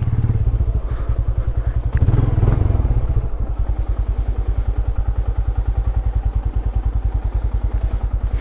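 Motorcycle engine running steadily, heard close from the bike, with an even, fast low pulse that does not rise or fall.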